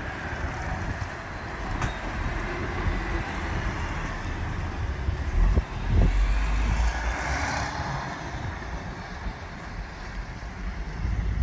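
Heavy trucks driving past, diesel engines rumbling low and steady, with a louder low rush about halfway through.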